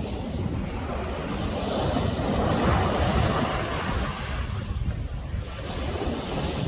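Sea waves breaking on a beach: a wave surges up about two seconds in and washes back, and another builds near the end, with wind buffeting the microphone.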